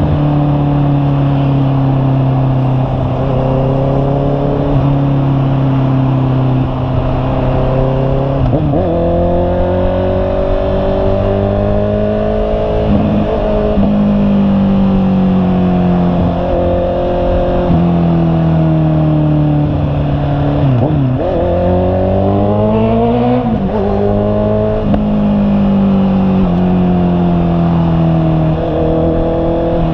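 Honda CB650R's inline-four engine running under way, its pitch rising and falling as the throttle opens and eases off, with quick breaks in pitch about 9, 21 and 23 seconds in where it changes gear.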